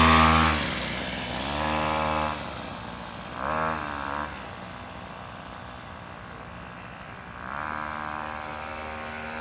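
Small dirt bike engine running as it is ridden, loudest in the first second and then dropping off. It revs up briefly about two and about four seconds in, runs lower for a few seconds, then rises in revs again near the end.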